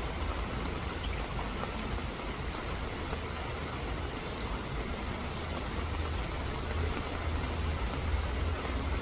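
Steady rain falling, an even hiss with no single drops standing out, over a constant low rumble.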